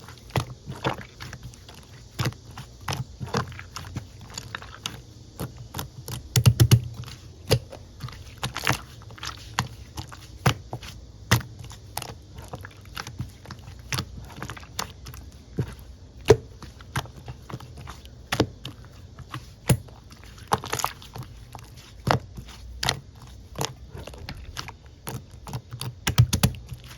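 Blue glitter slime being squished and pressed by hand, making irregular sticky clicks and pops, a few a second.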